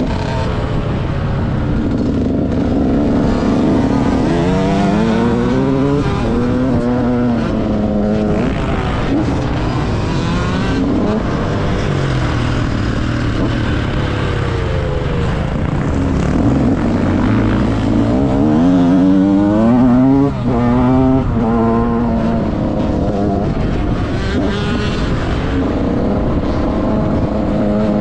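KTM SX 65 two-stroke engine revving hard and easing off again and again, its pitch climbing and dropping as the bike is ridden round a motocross track, with a brief dip about twenty seconds in.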